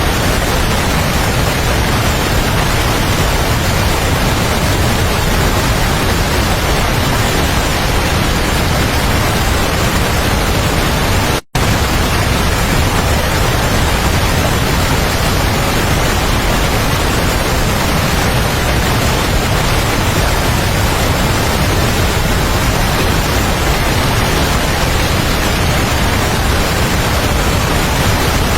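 Waterfall: a loud, steady rush of falling water with no change, cut off for a split second about eleven seconds in.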